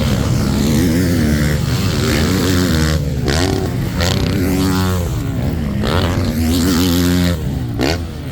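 Motocross dirt bikes racing, their engines revving, with the pitch climbing and dropping again and again.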